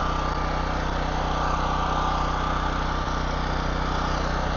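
Engine-driven welding generator running at a steady speed, with an even, unchanging hum.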